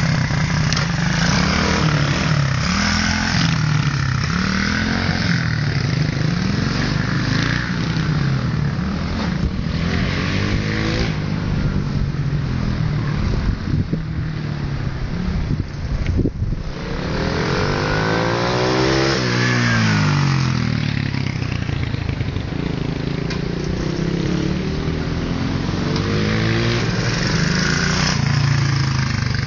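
Motorcycle engines revving up and down as the bikes ride laps, pitch climbing and dropping again and again. Just past halfway one comes close, its pitch sweeping up and then down.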